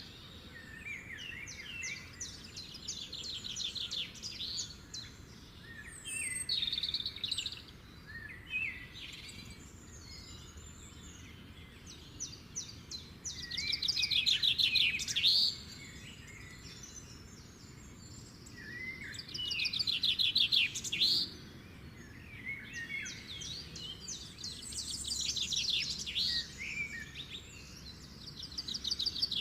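Small birds chirping and twittering, several at once, with louder bursts of rapid trills every few seconds.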